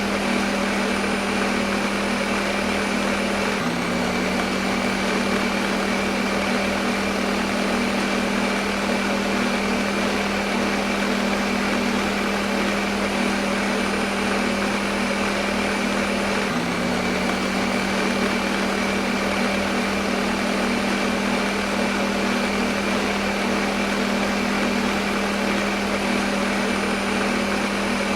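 Electric kitchen blender motor running steadily at one speed, a constant whirring hum with a faint high whine. The hum jumps slightly about four and seventeen seconds in, where the recording loops.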